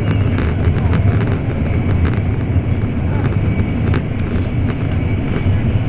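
Steady low rumble of an N700 series Shinkansen running at speed, heard from inside the passenger car, with a few faint clicks.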